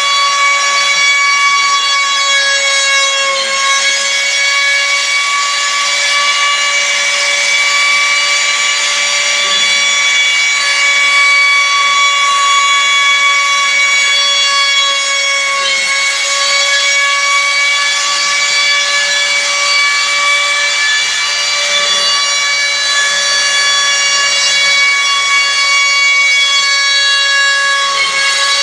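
CNC router spindle running at high speed and cutting wood: a steady, high-pitched whine over a rasping cutting noise, sagging briefly in pitch three times as the spindle takes load.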